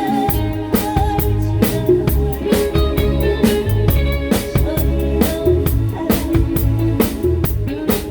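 A live band playing a song: drum kit keeping a steady beat with bass drum and snare hits, over bass and guitar.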